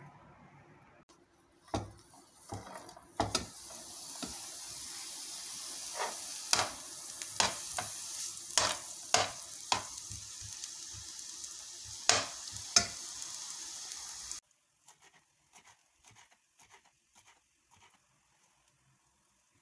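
Wild greens sizzling as they are sautéed in a pan, with a spoon knocking and scraping against the pan about a dozen times as they are stirred. The sizzle cuts off suddenly about three quarters of the way through, leaving only a few faint taps.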